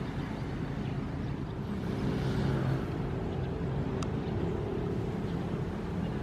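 Ocean waves as a steady low rumble, with a wave swelling up about two seconds in and easing off. A single short click a little past the middle.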